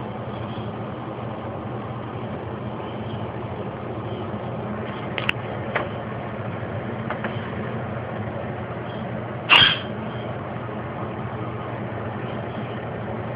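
Steady low mechanical hum throughout, with a few brief high calls from a cockatiel. The loudest is a single short chirp about two-thirds of the way through.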